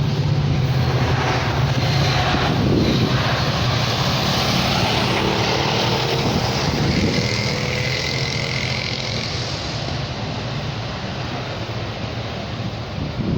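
A train passing close by: a steady low engine drone under loud wheel and rail noise, with a brief faint high whine about seven seconds in, the sound easing off over the last few seconds.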